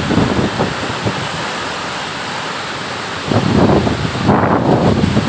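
Loud, steady rush of a large waterfall, with wind buffeting the microphone in gusts that swell louder in the second half.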